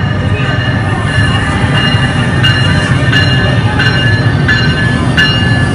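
Commuter train pulling into the station: a steady low rumble with high metallic ringing. From about halfway a sharp metallic strike with ringing repeats roughly every 0.7 seconds.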